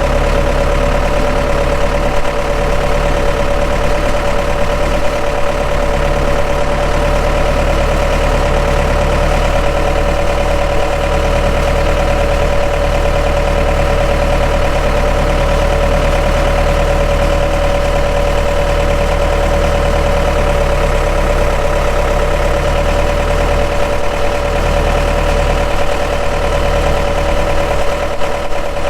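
Skid steer engine idling steadily, with a steady high whine over its low hum.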